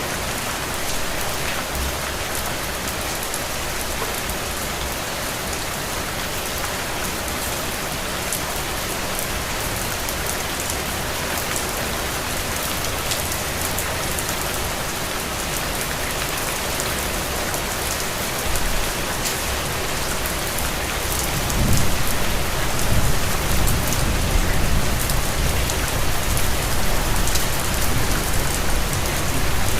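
Steady rain falling on a surface, an even hiss with scattered drop ticks. About two-thirds of the way through, a low rumble of thunder sets in and carries on under the rain.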